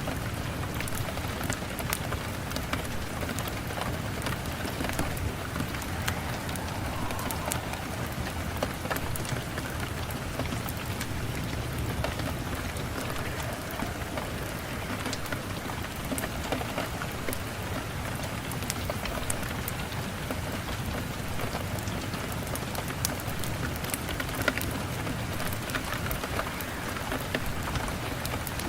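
Steady rain falling, with scattered sharp pops and crackles of a wood fire throughout.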